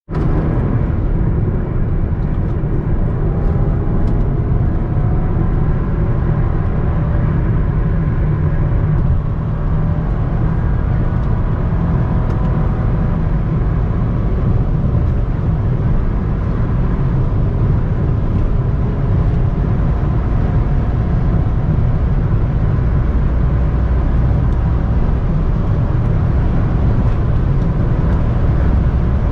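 Toyota Camry 3.5Q's 3.5-litre V6 and its tyres at highway speed: a steady low rumble of road and engine noise with a faint engine tone that wavers slightly.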